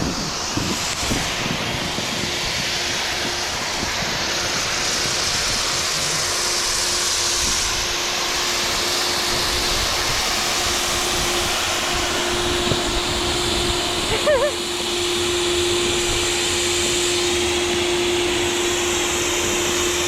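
Steady rushing hiss of wind and board on snow during a snowboard run, with a steady machine hum that grows louder in the second half.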